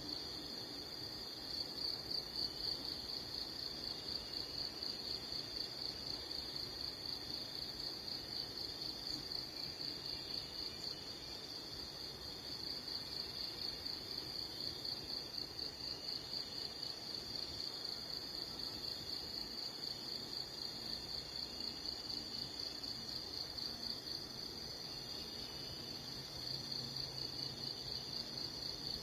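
Insects trilling: a continuous, high-pitched, rapidly pulsing trill that holds steady throughout, over a faint low background hum.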